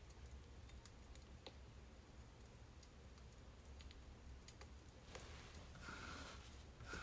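Faint crackling of burning birch firewood: scattered small pops and clicks, with a couple of slightly louder crackles near the end, over a low steady hum.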